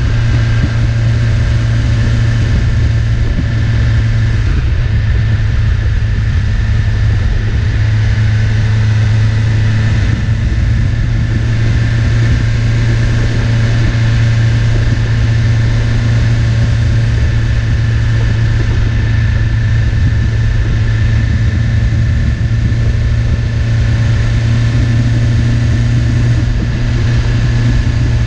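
2020 BMW S1000RR's inline-four engine running at steady low revs in third gear while cruising, its note holding level throughout.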